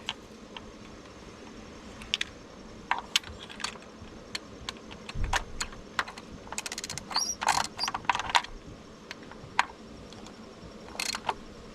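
Hand ratchet clicking in short runs, with scattered light metal clinks, as 10 mm bolts are snugged down on a Honda K24 four-cylinder engine during a tune-up. A fast run of clicks comes a little past halfway.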